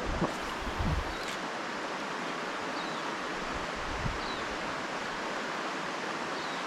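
Steady rush of a rainforest creek's flowing water, with a few soft low thumps in the first second and faint short high chirps every second or two.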